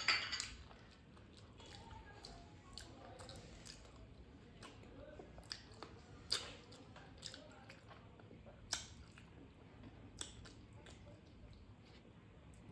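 A person chewing a mouthful of rice and papaya curry close to the microphone, with sharp mouth clicks every second or two; the loudest come at the very start and about six and nine seconds in.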